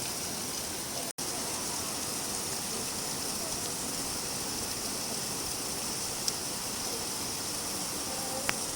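Steady rain falling, an even hiss, with a couple of faint drip ticks near the end. The sound cuts out for an instant about a second in.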